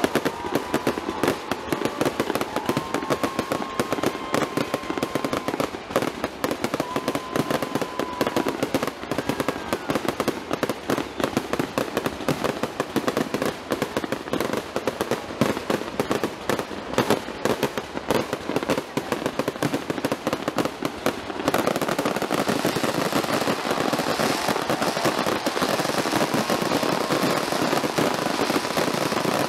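Fireworks display: a rapid, unbroken barrage of aerial shells bursting, overlapping bangs and crackling. About three quarters of the way through, it turns into an even denser, steadier crackle.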